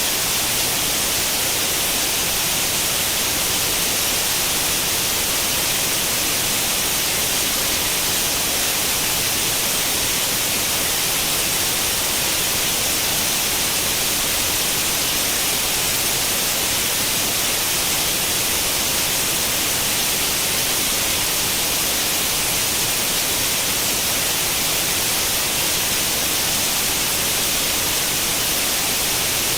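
Continuous white noise in the manner of an old tube television's static with no channel tuned: an even, unchanging hiss, brightest in the upper range.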